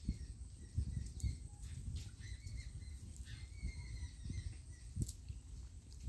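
Faint bird chirps and calls over a steady low rumble, with a couple of sharp clicks, one about a second in and one near the end.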